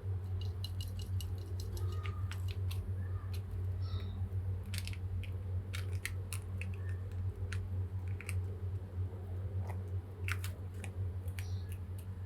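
A kitten playing in a Christmas tree: scattered light clicks, taps and rustles, some in quick runs, over a steady low hum.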